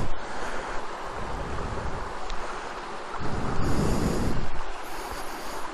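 Wind buffeting the microphone in gusts over a steady rushing noise, with one stronger gust about three seconds in.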